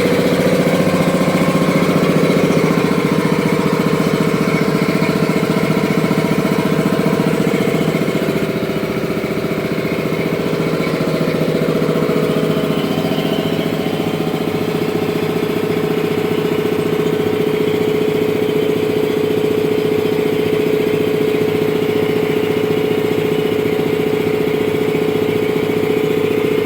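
A 5 hp two-stage piston air compressor running steadily, with a fast, even pulsing from the pistons over a steady hum. About eight seconds in, the higher hiss drops slightly and the running sound settles onto a steadier pitch.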